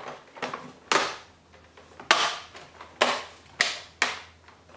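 Plastic bezel clips on an all-in-one PC case snapping into place as the trim piece is pressed down, five sharp clicks over a few seconds.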